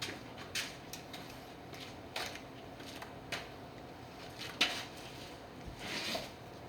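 Scattered clicks and knocks of hands handling the engine test stand's ECU and its wiring connector. The strongest knock comes just past halfway and a short rustle follows near the end.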